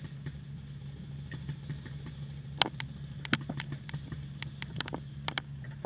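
Paintball fire: an irregular string of about a dozen sharp cracks starting about two and a half seconds in, over a steady low hum.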